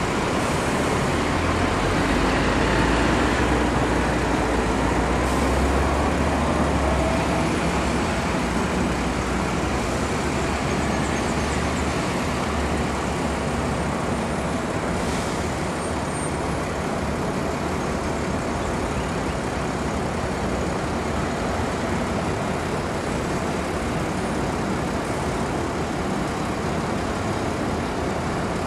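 Scania K310UD bus's diesel engine pulling away, loudest in the first several seconds before settling into a steady run.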